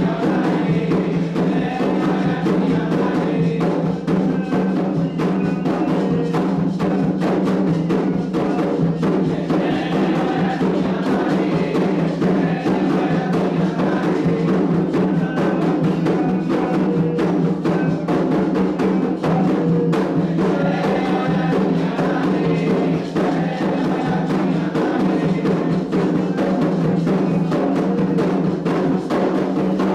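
Candomblé ritual music: atabaque hand drums beating a steady, continuous rhythm, with a struck bell or wood-like percussion and voices chanting over it.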